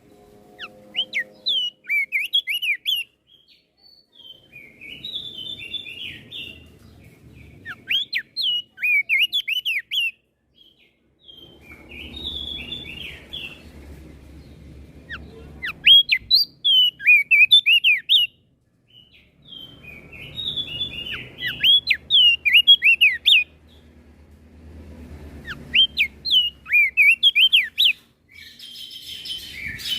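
Crested darkeye (opior jambul) singing: bouts of quick, sharp whistled notes sweeping up and down, each bout a few seconds long, separated by short pauses. A faint low rumble sits under some of the bouts.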